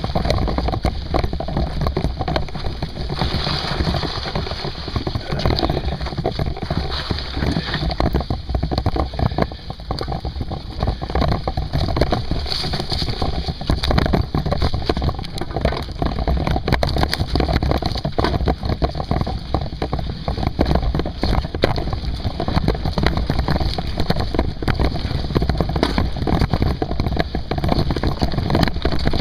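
Mountain bike in motion: a steady rumble of tyres and wind buffeting the microphone, with a constant patter of small rattles and knocks from the bike.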